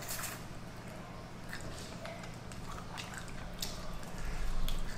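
Close-miked eating sounds: a person chewing with scattered wet smacks and mouth clicks, over a faint steady low hum.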